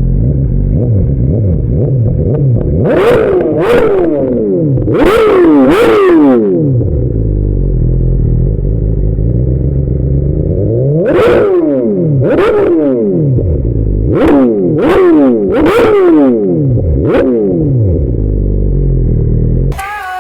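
2020 BMW S1000RR's inline-four engine with an Akrapovic Evolution exhaust, idling and being blipped about ten times, each rev rising sharply and falling straight back to idle, mostly in quick pairs.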